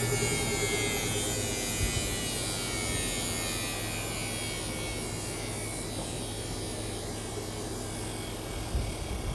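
Washing machine on its spin cycle: a steady motor hum and whine that slowly drops in pitch, with a knock about two seconds in and another near the end as the machine shakes.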